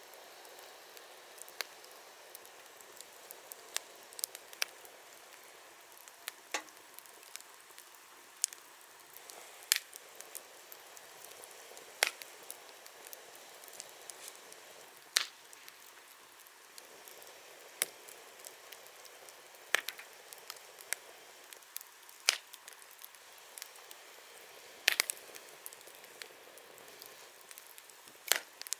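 Wood fire burning with a steady hiss, broken by sharp, irregular crackles and pops of the burning firewood every second or two.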